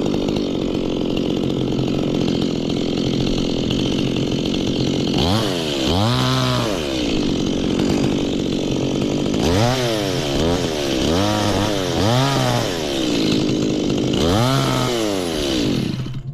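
Two-stroke chainsaw running at a steady speed, then revved up and let back down about five times in uneven bursts, cutting off suddenly near the end.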